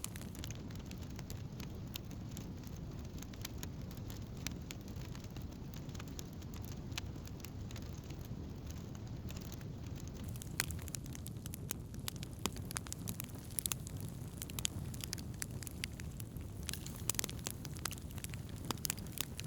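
Wood campfire burning: a steady low rush with frequent sharp crackles and pops, which come thicker and louder in the second half.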